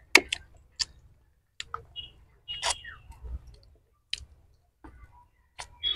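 Close-up eating sounds of chicken biryani eaten by hand: irregular short, wet mouth clicks and smacks while chewing.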